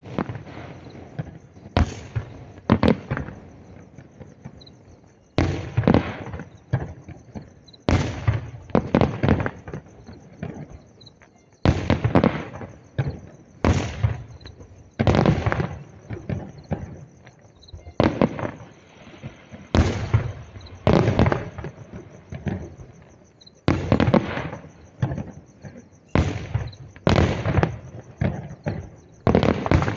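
New Year fireworks and firecrackers going off: loud bangs, often two to four in quick succession, recurring every couple of seconds, each with a long echoing tail.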